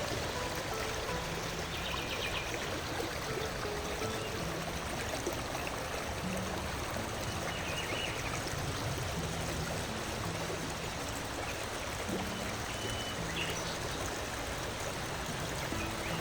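Stream water running steadily, an even rushing and trickling, with a few short high chirps over it.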